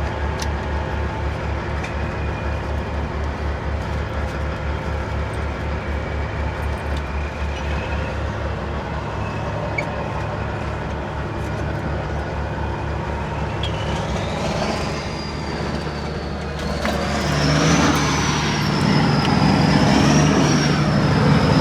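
Diesel semi-truck engine idling with a steady low pulsing beat; about 17 s in it gets louder and a high whine wavers up and down over it. The rough idle is put down to bad injectors and a misfire.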